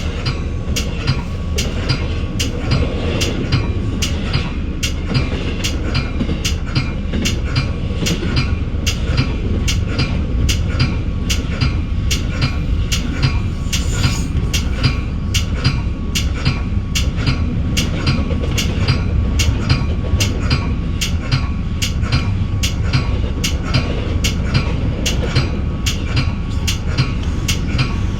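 Commuter train running at speed, heard from inside its bi-level cab car: a steady low rumble of wheels on rail with sharp, regular clicks about twice a second and a faint steady whine.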